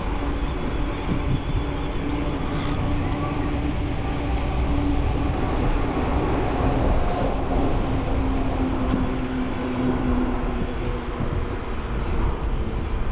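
Steady rolling noise of a bicycle ride, heard from a camera mounted on the bike: tyre rumble and wind on the microphone, with a steady hum underneath.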